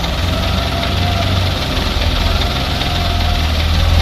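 Toyota Dyna dump truck's engine running steadily at idle, a low rumble.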